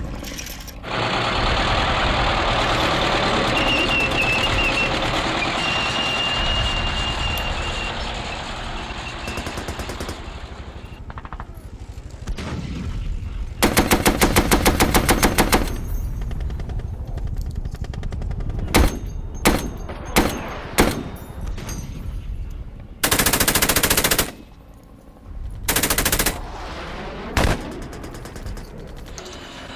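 Battle sound effects of gunfire: a long rushing noise at first, then a rapid machine-gun burst of about two seconds, a few single shots and two more short bursts.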